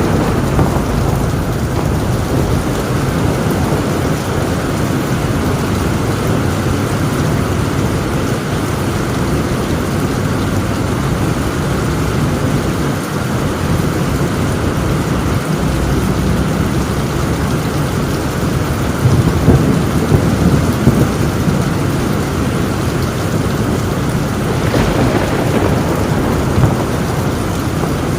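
Heavy rain falling on a tin roof with continuous rolling thunder; the thunder swells louder with a few sharp peaks around twenty seconds in.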